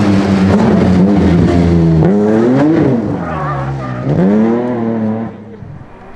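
Rally car engine running hard at high revs. Its pitch dips and climbs back twice as the driver lifts and gets on the throttle again, and the sound falls away sharply about five seconds in as the car moves off.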